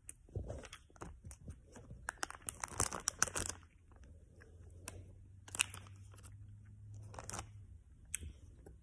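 A child eating gummy worm candy close to the microphone: wet mouth clicks and chewing, with crinkling of the plastic candy packet. A dense run of crackles in the first few seconds, then only a few scattered clicks.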